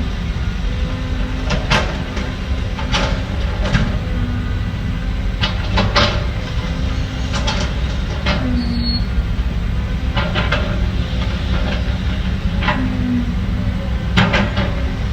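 Heavy diesel earthmoving machinery running steadily, with irregular sharp clanks and knocks every second or so, typical of tracks and a steel bucket working.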